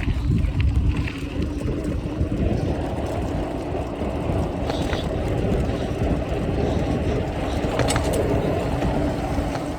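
A bike being ridden: wind on the microphone and rolling noise, with a steady hum and a few light clicks.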